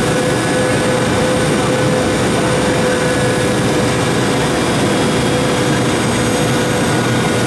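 Steady cabin noise of a Boeing 717 in flight, heard from inside: the drone of its rear-mounted Rolls-Royce BR715 turbofans and the rush of air over the fuselage, with a steady hum running through it.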